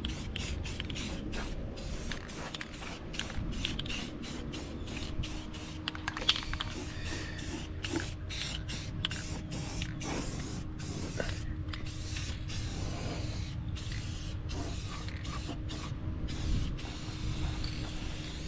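Aerosol can of gloss clear coat spraying in many short bursts, touching up dry-spray spots on a freshly painted engine bay.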